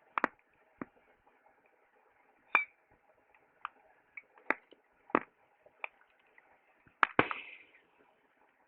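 Wood fire crackling: sharp, irregular pops over a faint hiss, the loudest pair about seven seconds in.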